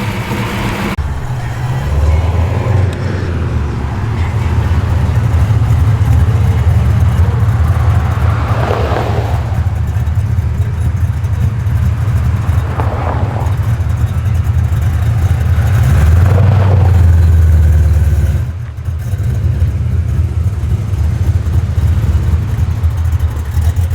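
Muscle car engine running with a deep, steady exhaust rumble, swelling about two-thirds of the way through and dropping off abruptly soon after.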